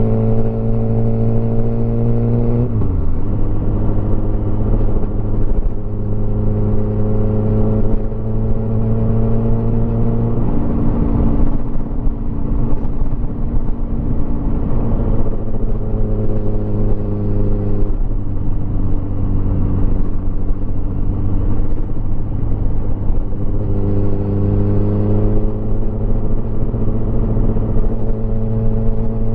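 Motorcycle engine running under way, its note slowly rising as it accelerates and dropping sharply at gear changes about three and ten seconds in, then climbing again near the end.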